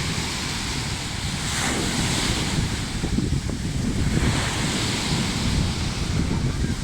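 Sea waves breaking and washing up a beach, the surf hiss swelling twice, with strong wind buffeting the microphone.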